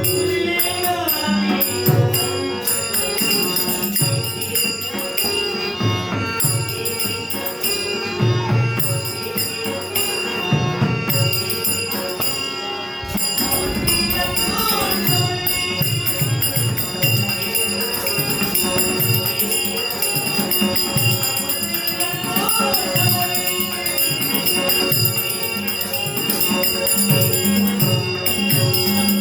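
Live folk-theatre stage music: a singing voice over a steady hand-drum beat, with jingling metal percussion and sustained high accompanying tones.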